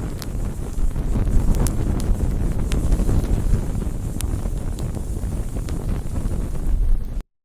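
Bonfire burning: a steady low rumble of flames with several sharp crackling pops from the wood. The sound cuts off abruptly to silence near the end.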